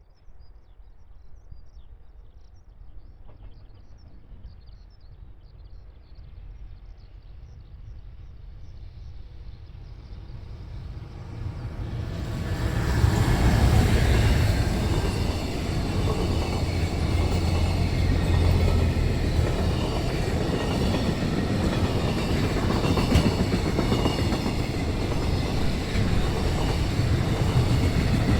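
A JR Freight EF210 electric locomotive hauling a freight train approaches and grows steadily louder, then passes close by about halfway through. The freight wagons follow, rolling past with a steady, loud clatter of wheels on rails.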